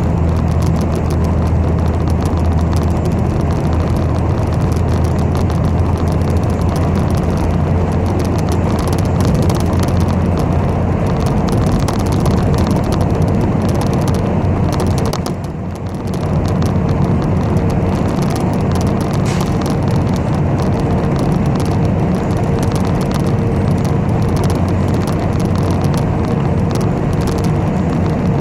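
Inside a moving city bus: steady low engine and road rumble, with a faint steady whine. The noise dips briefly about halfway through, then comes back.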